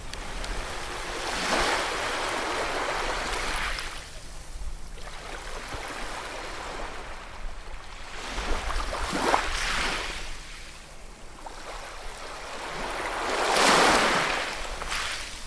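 Ocean waves breaking and washing up on a shore, three swells of hissing surf, the loudest about two-thirds of the way through, over a steady low rumble.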